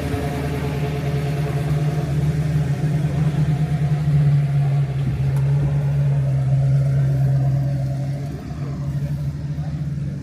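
Car engine running close by with a steady low note that grows a little louder midway and eases off near the end.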